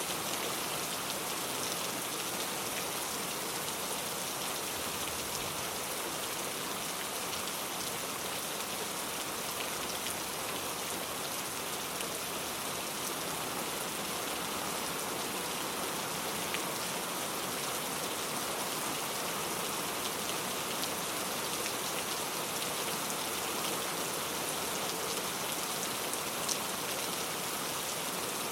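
Steady rain falling, an even hiss with faint scattered drop ticks and one slightly louder drop near the end.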